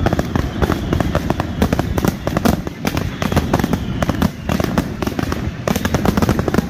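Fireworks going off in a dense, continuous barrage of bangs and crackles with barely a gap between them, and a faint falling whistle in the first couple of seconds.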